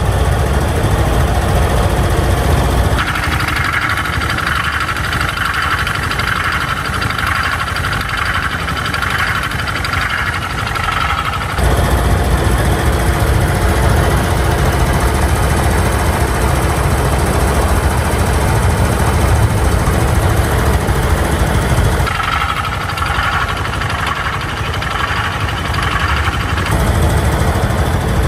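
A SYM Duke scooter engine running, heard as several clips that switch abruptly about 3, 12, 22 and 27 seconds in, to compare its sound before and after a warranty engine repair. The unrepaired engine runs unevenly, rising and falling 'like a galloping horse', the sign of the engine fault behind its abnormal noise. The repaired engine runs smoothly and evenly.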